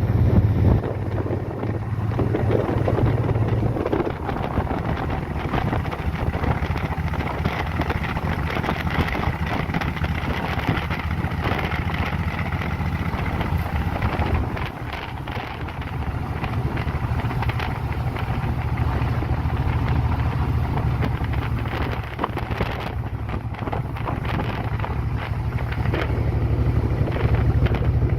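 Wind rushing over the microphone of a moving motorcycle, with the engine's low steady drone underneath.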